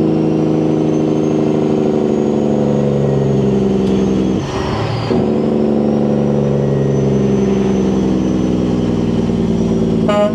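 Semi truck's engine brake running with a steady, even note, cutting out for about half a second partway through for a downshift and then coming back on in the lower gear.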